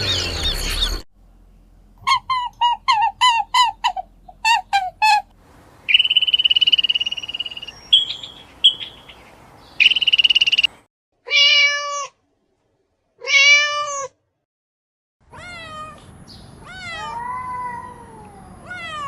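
A sequence of animal calls: first quick runs of short, high chirping calls, then a few held, whistle-like high notes, then several drawn-out meows that rise and fall or slide down in pitch.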